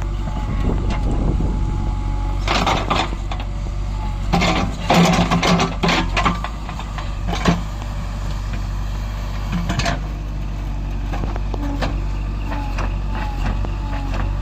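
Heavy diesel engine running steadily, with irregular bursts of clatter and rushing noise about 2 to 3 seconds in, several more around 5 to 6 seconds, and single ones near 7.5 and 10 seconds.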